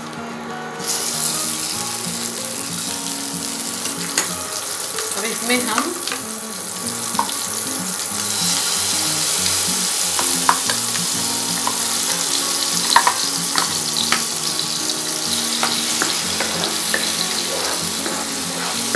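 Oil and butter sizzling in a hot kadhai. The hiss starts suddenly about a second in and grows fuller about eight seconds in, as a ground cashew, onion and curd paste goes into the fat and is stirred, with a few knocks of the spatula. Faint background music runs beneath.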